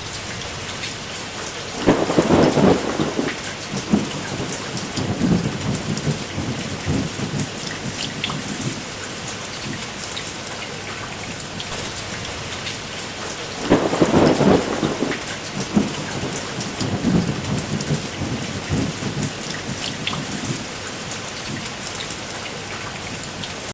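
Steady rain with two rolls of thunder, one about two seconds in and one about fourteen seconds in, each followed by a few fainter rumbles.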